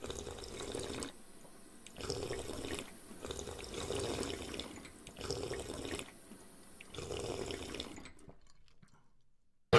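Animal drinking-water sound effect: wet slurping in five bursts of about a second each with short gaps, fading out near the end.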